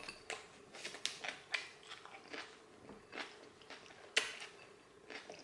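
Close-miked chewing of a mouthful of salad greens: a run of soft, irregular crunches, with one sharper crunch about four seconds in.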